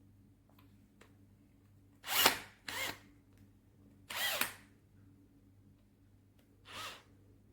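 Drill motor run in four short bursts, spinning up and stopping each time; the first burst is the loudest.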